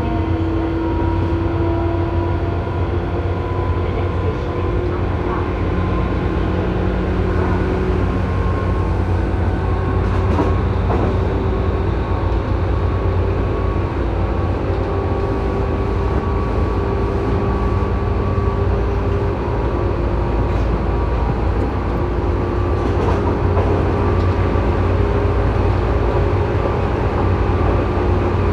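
Tobu 9000-series electric train running, heard from inside the car above its armature chopper control: a steady low rumble of wheels and motors with several thin steady tones that shift a little in pitch and drop in and out. The chopper in this car is known for an abnormal high-pitched whine.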